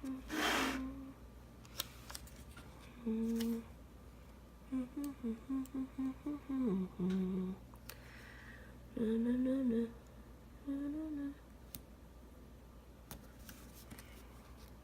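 A woman humming a tune to herself in several short phrases of quick notes, stopping about three quarters of the way through. A brief rustle just after the start and a few light clicks.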